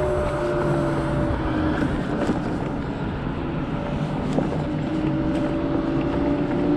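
Kaabo Wolf GT Pro electric scooter riding at speed: wind rushing over the microphone, with a steady motor whine whose pitch sags a little partway through.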